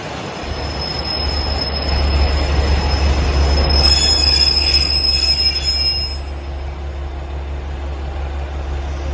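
A train running past with a steady deep rumble. A high, steady wheel squeal comes in about a second in and fades out around six seconds in, while it is at its loudest.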